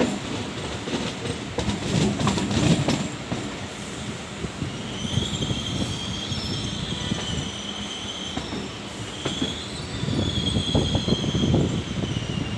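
Suburban local train running on its rails, with a low rumble and clatter. A high, wavering wheel squeal sets in about five seconds in and holds until near the end.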